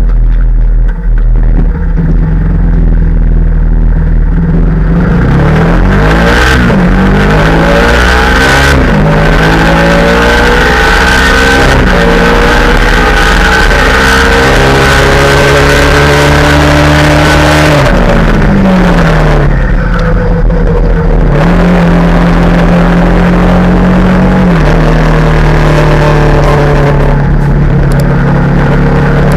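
Yamaha R15's single-cylinder engine under way, revving up through the gears with its pitch climbing and dropping at each shift. It slows with a falling pitch about 18 seconds in, then pulls away through the gears again. Wind rushes over the microphone while the bike is at speed.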